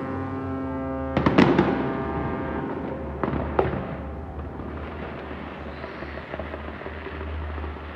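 Fireworks bursting: a cluster of sharp bangs and crackle about a second in, then two more single bangs a couple of seconds later. A deep, steady horn chord sounds at the start and cuts off about a second in, with a low drone running underneath throughout.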